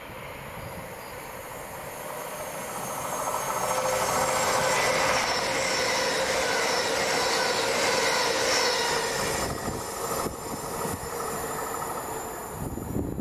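A GWR Hitachi Intercity Express Train running through the station at speed without stopping. Its rush grows as it approaches, is loudest for several seconds as it passes with a steady whine over the wheel noise, then falls away about ten seconds in.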